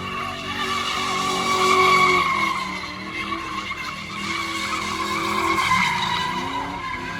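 Car tyres squealing steadily in a long skid, with the engine revving underneath; the pitch wavers but never stops, as in a car spinning donuts.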